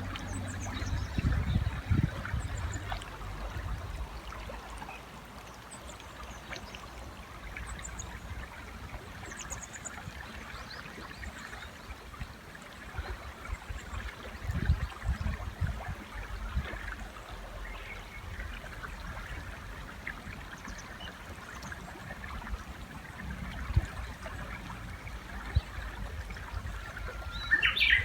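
River water running steadily, with faint high bird chirps and a few low thuds. Near the end a Japanese bush warbler starts singing loudly.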